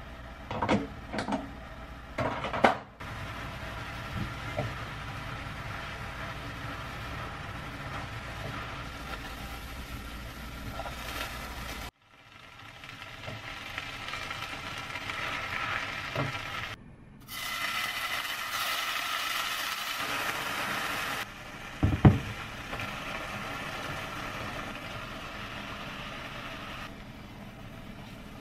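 Stir-frying on an induction hob: a few light taps and clicks, then a steady frying hiss from vegetables and tofu-skin strips being cooked and stirred in the pan. After a cut about halfway, the hiss is louder with a faint steady hum under it, and there is a single sharp knock about three quarters of the way in.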